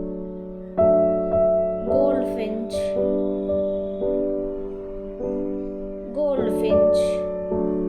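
Background piano music: soft notes struck about once a second, each ringing on and fading.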